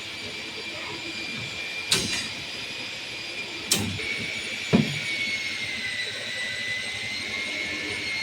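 A machine running with a steady high whine over a noisy hiss, broken by three sharp knocks, the last and loudest almost halfway through.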